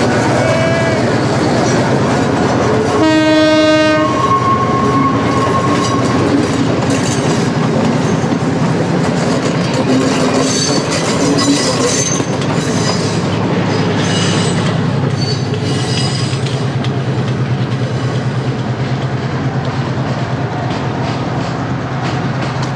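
Sri Lanka Railways Class M6 diesel locomotive passing at close range with its engine running, sounding one horn blast of about a second about three seconds in. The passenger carriages then roll past, their wheels clacking over the rail joints.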